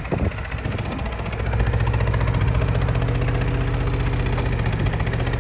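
Detroit Diesel 6V92TA two-stroke V6 diesel engine idling with a fast, even beat, steadying after a noisier first second or so.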